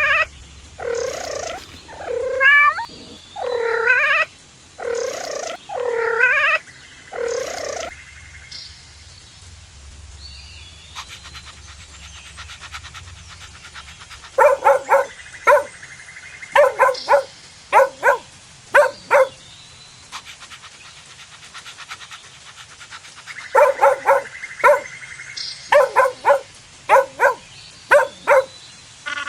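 Cats meowing: a run of drawn-out meows with a bending pitch, then, after a quieter stretch about midway, two quick series of short, clipped mews.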